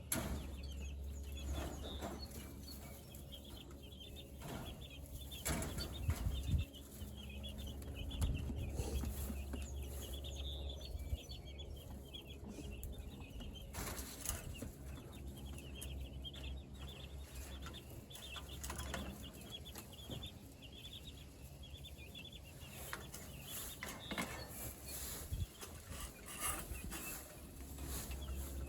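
A flock of broiler (meat) chickens peeping and clucking continuously, with occasional wing flapping and scuffling. A steady low rumble runs underneath.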